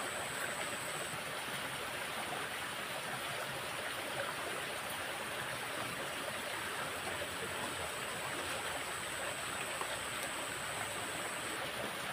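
Steady rush of water flowing in a drainage ditch swollen by heavy rain, with a thin high steady whine above it that stops shortly before the end.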